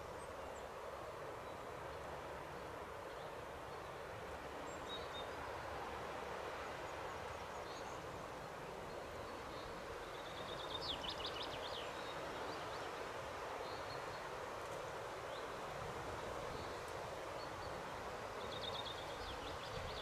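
Steady outdoor background hiss with small birds calling: two short, high, rapid trills, about eleven seconds in and again near the end, and a few faint chirps in between.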